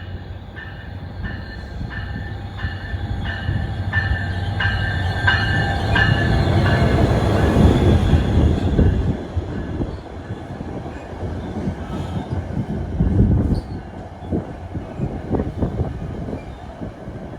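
Train approaching and passing, its rumble swelling to a peak and easing off. A bell dings in steady strokes, about one and a half a second, and stops about six seconds in.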